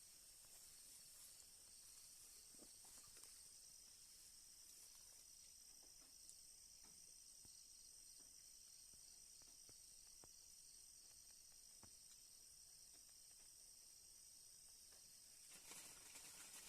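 Faint, steady high-pitched chorus of night insects chirring, with a few faint clicks.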